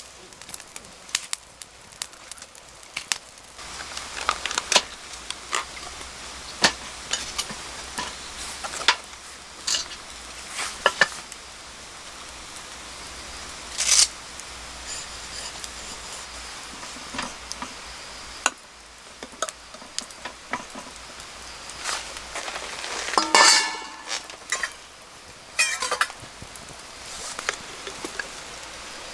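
Food sizzling in a pan over a campfire, with frequent clinks and taps of cooking utensils against the pan and dishes, and a longer rattling clatter near the end.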